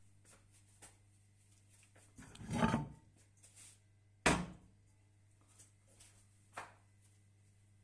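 Knocks and handling sounds: a rustling scrape about two seconds in, a sharp knock a little after four seconds and a smaller one about two seconds later, over a steady low electrical hum.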